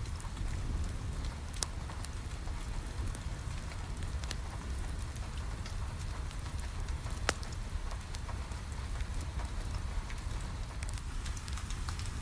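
Steady rain against a window over a low rumble, with a few sharp pops of a crackling wood fire, the loudest about seven seconds in.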